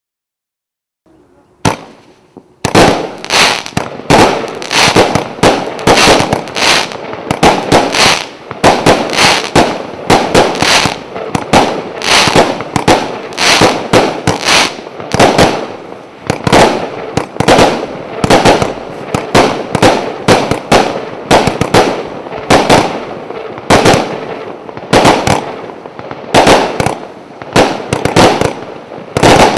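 A 150-shot consumer fireworks cake firing: a rapid, unbroken string of launches and bangs, several a second, starting about two and a half seconds in.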